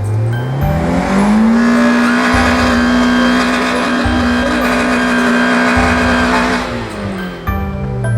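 Car engine revved hard and held at high revs for about five seconds, wheels spinning in the snow as the stuck car tries to drive free, then the revs drop away near the end.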